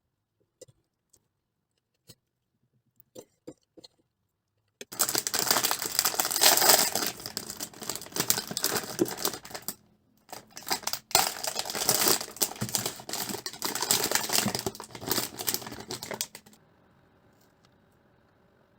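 Packaging crinkling loudly as it is handled, in two long spells starting about five seconds in with a short break between them, after a few faint clicks; a faint steady hum remains near the end.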